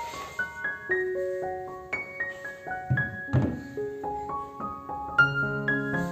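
Background piano music: a slow line of single ringing notes, filling out into fuller chords about five seconds in.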